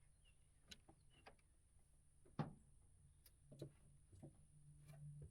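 Near silence with a few faint scattered clicks and knocks, one sharper knock about two and a half seconds in.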